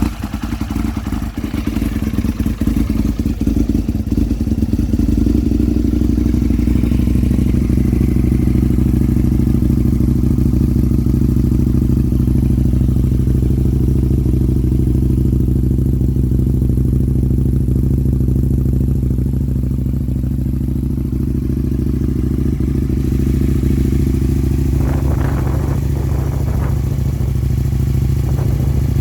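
Aprilia RSV 1000 Tuono's 998 cc V-twin idling steadily just after being started, fitted with an aftermarket exhaust. A few short clicks come in near the end.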